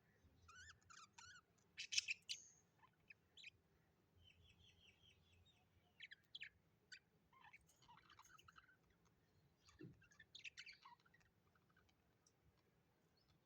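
Small birds chirping and warbling faintly in scattered bursts of short calls and quick note series, loudest about two seconds in and again about ten seconds in.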